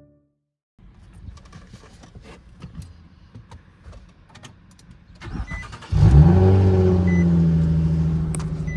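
Faint clicks and rustles of someone handling things inside a car, then a car engine starting about six seconds in and settling into a steady idle.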